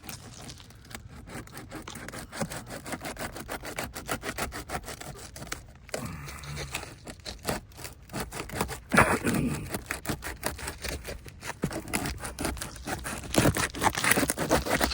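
A pry tool scraping under a brittle Tamko asphalt shingle to break its sealed strip loose, with many small cracks and ticks and louder rasping stretches about six, nine and thirteen seconds in; the old shingle is cracking as it is unsealed.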